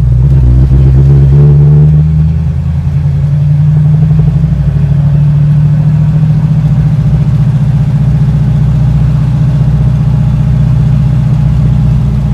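1965 Ford Mustang's engine running under way. Its note rises for about two seconds as the car accelerates, dips briefly, then holds steady.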